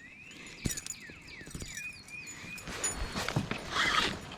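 A bird calling a quick series of short chirps that slide in pitch, with a few hollow knocks and a rustle partway through.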